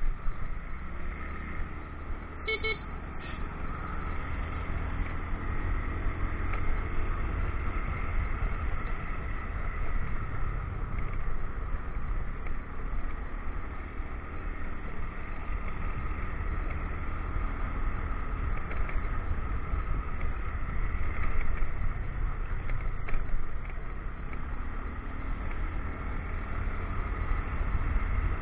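Motorcycle riding along a winding road: a steady engine drone mixed with road and wind noise. Two brief high beeps come about two and a half seconds in.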